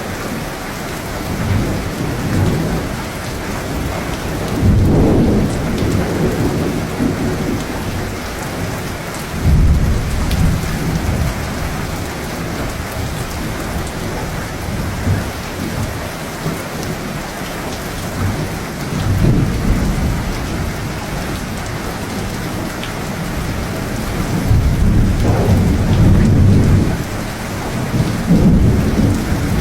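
Steady heavy rain with several low rolls of thunder rumbling through it, one starting suddenly about a third of the way in and the longest near the end.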